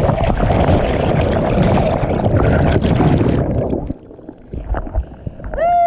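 Loud rushing and splashing of whitewater on a river as a kayak is paddled through it, which drops away suddenly about four seconds in to quieter water with a few knocks. A short shouted call comes near the end.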